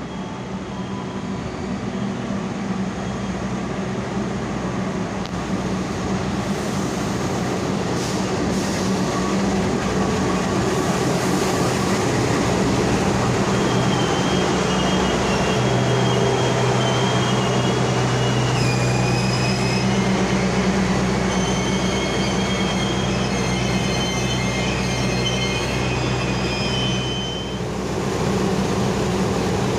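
A train running through a station, growing louder over the first several seconds, with a steady low hum from its running gear. High-pitched wheel squeal on the rails joins about halfway through and stops shortly before the end.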